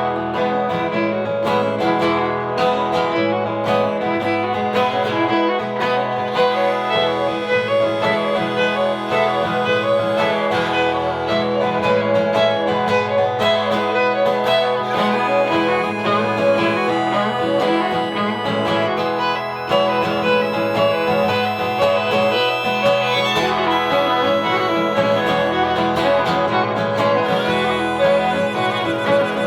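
Instrumental break of a live acoustic song: guitar and violin playing together, with no singing.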